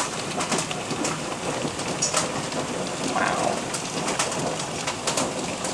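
Heavy rain and hail coming down, a steady hiss dotted with many sharp hits of hailstones striking and splashing, with a brief higher sound about three seconds in.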